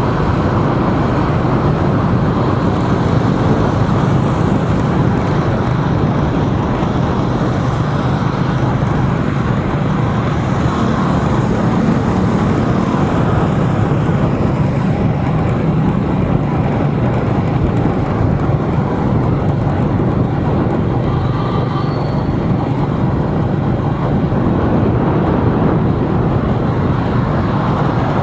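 Steady road and traffic noise from a vehicle driving along city streets: engine and tyre rumble with surrounding traffic, even and unbroken.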